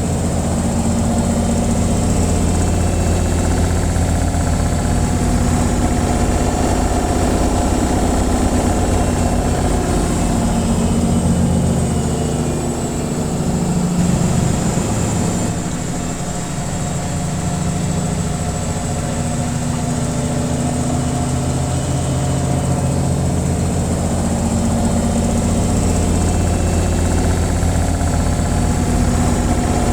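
Washing machine on its spin cycle: a steady low motor-and-drum hum with a constant background hiss. A little before the middle the hum briefly dips and shifts, then settles back to steady.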